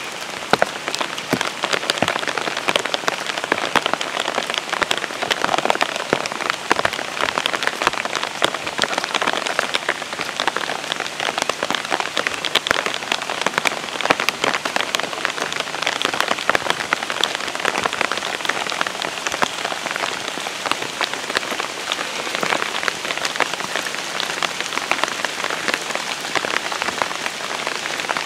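Steady rain falling: a dense, even hiss with many small drop hits close by.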